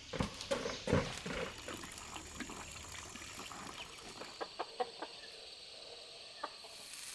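Chickens clucking a few times, followed by a scatter of short, sharp clicks.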